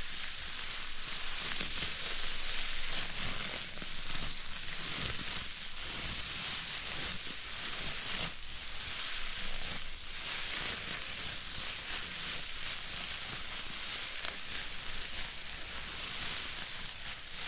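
Bubble wrap being crushed by hand: a dense, continuous crackle of many small pops, running at an even level.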